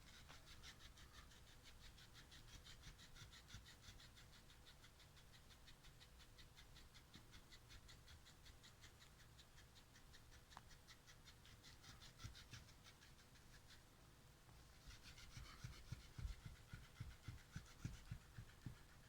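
Faint, fast, evenly repeated sounds from a black cat, coming in runs of a few seconds, with a few louder low thumps near the end.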